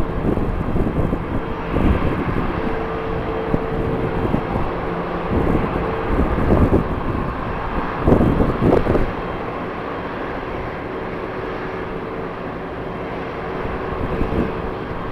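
Jet airliner engines running at the airport, a steady roar with a faint humming tone that comes and goes. Strong gusts of wind buffet the microphone several times, hardest about eight seconds in.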